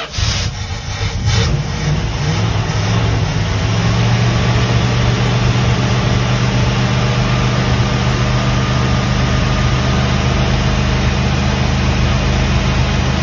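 The 1975 Winnebago Brave's engine, running after sitting ten years. It runs unevenly for the first few seconds after firing, then settles into a steady idle.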